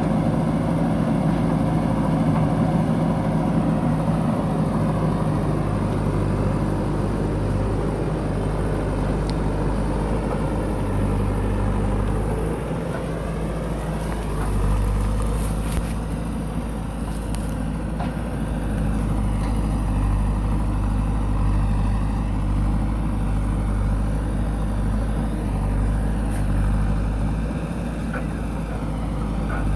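Diesel engine of a JCB backhoe loader running steadily as the machine works, with a few light clicks near the middle.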